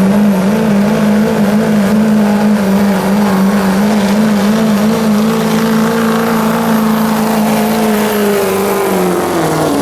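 A truck-pull competitor's engine held at high revs under load as it pulls the sled down the track. The pitch stays steady with a slight waver, then drops off near the end as the engine backs off.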